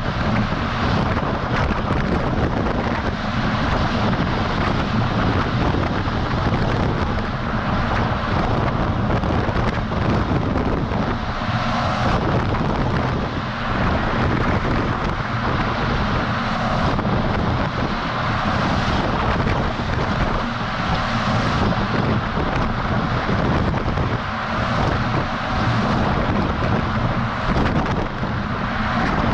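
Steady wind rush over an action camera's microphone mounted on the side of a moving semi-truck, with the truck's engine and tyre noise underneath.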